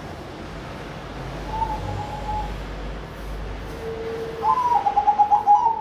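Zebra dove (perkutut, Bangkok type) cooing: a single soft coo, then a lower note, then a loud rapid run of short staccato coo notes in the last second or so. A low rumble runs underneath.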